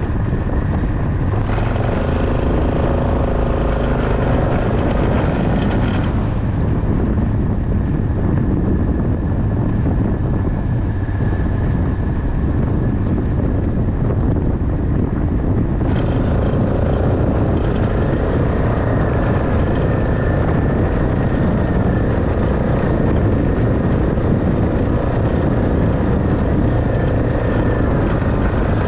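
Farm vehicle's engine running steadily, with a heavy low rumble. The engine note changes about two seconds in, drops back around six seconds, and changes again about sixteen seconds in.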